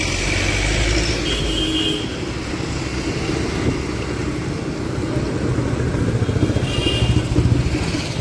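Road traffic running, a steady low rumble, with two short high-pitched tones, one about a second in and one near the end.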